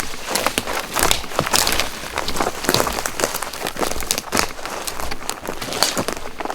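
Footsteps crunching and rustling through dry brush and ground litter, with a dense, irregular crackle.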